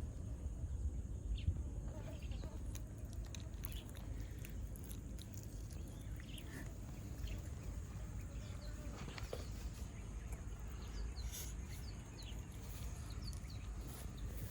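Outdoor background: a steady low rumble with faint, scattered short calls of birds or other animals.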